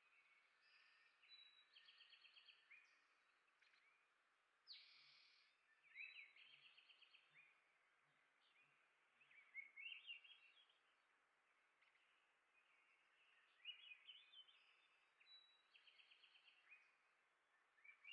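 Small songbirds chirping faintly, with scattered sharp chirps and three quick trills of rapidly repeated notes, over a soft steady hiss. A brief rushing burst about five seconds in.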